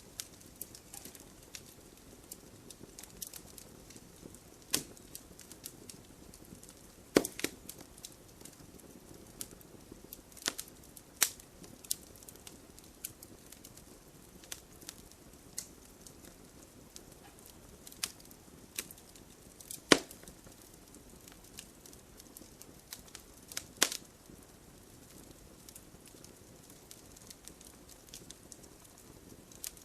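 Wood fire crackling in an open fireplace: a steady run of small snaps with scattered sharp pops, the loudest about 7 and 20 seconds in.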